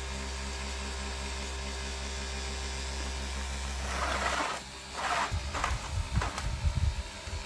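A small electric motor runs with a steady hum, then stops about four and a half seconds in. Handling noise and a few irregular low thumps follow.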